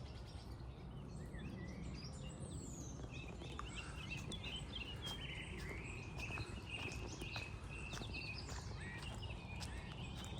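Small songbirds chirping and calling, with many short chirps and trills, over a steady low outdoor rumble.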